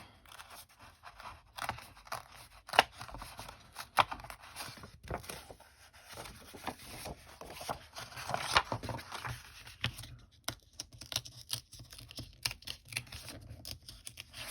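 Paper being cut along the edge of a notebook cover with a Fiskars cutting tool: an irregular run of scratchy strokes and sharp clicks as the blade is drawn over the cut again where it had not gone all the way through.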